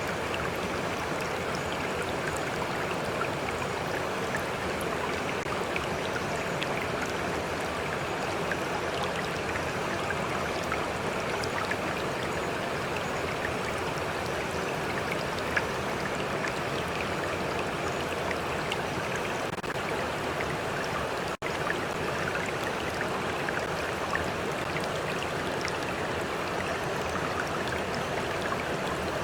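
Stream water flowing and splashing in a steady, even rush, with small droplet ticks scattered through it. The sound cuts out for an instant about two-thirds of the way through.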